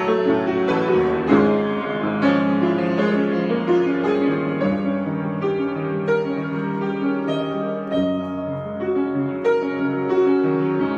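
Solo piano improvisation: sustained chords in the middle register with a melody of single notes above, played at a slow, even pace.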